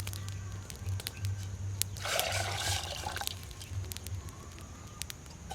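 A short rush of liquid, about a second long, starting about two seconds in, with scattered light clicks around it.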